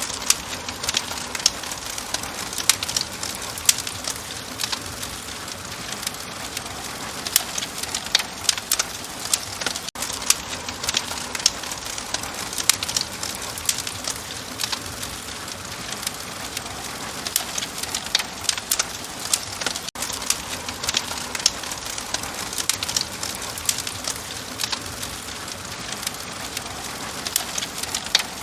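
Wood fire crackling in a fireplace: frequent sharp pops and snaps of varying strength over a steady hiss, with a brief dropout about every ten seconds.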